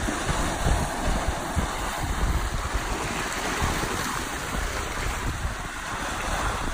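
Sea surf washing on the shore in a steady rush, with wind buffeting the microphone in uneven low rumbles.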